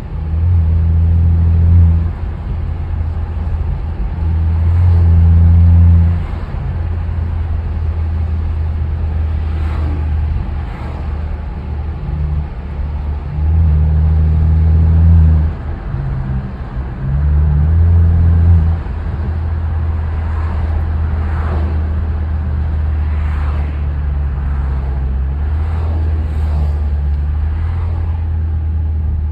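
Straight-piped BMW F10 exhaust on the move: a deep, steady drone that swells louder in four surges of a couple of seconds each as the throttle is pressed, then settles to an even cruise. Faint short crackles later on are the exhaust burbles.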